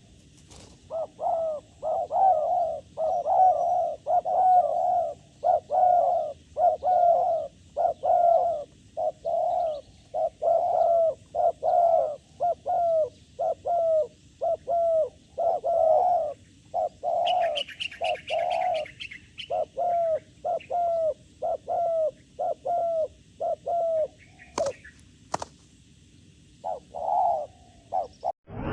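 A dove cooing over and over in short, even notes, about two a second, pausing briefly a few times. Partway through, a brief run of higher chirps cuts in, and a sharp click comes near the end.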